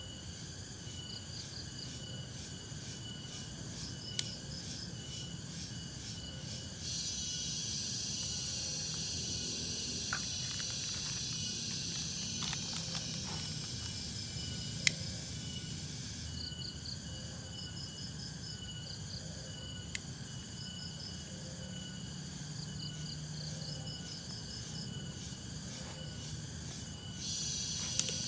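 Forest insects chirping in repeated pulsed trills, with a denser high buzzing chorus swelling in for several seconds about a quarter of the way in and again near the end. A few sharp clicks stand out.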